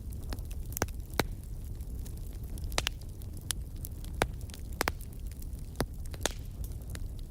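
Wood fire in a fireplace crackling, with about a dozen sharp, irregular pops and snaps over a steady low rumble from the burning.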